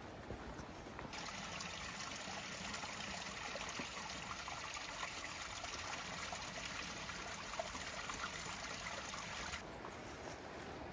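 Flowing water trickling in a steady, even rush; it starts abruptly about a second in and cuts off abruptly about a second before the end.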